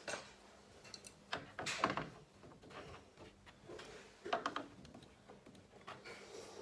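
Scattered knocks and clatters of handling work, a few seconds apart, over a faint steady hum.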